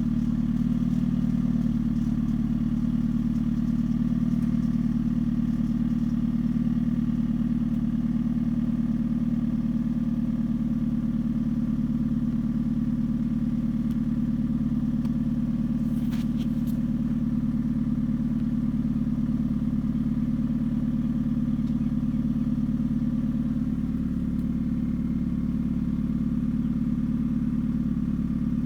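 A 2013 Hyundai Genesis Coupe's 2.0 turbo four-cylinder engine running steadily, likely at idle, with the rattle its owner is trying to locate; he suspects the engine, the engine mounts or the exhaust hanging too low.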